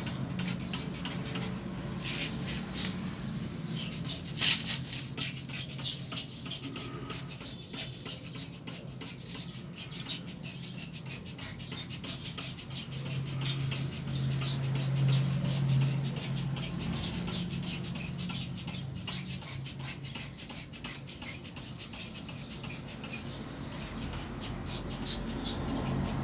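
Brush scrubbing the dusty parts of a window air conditioner: a long run of quick, repeated rubbing strokes over a low steady hum.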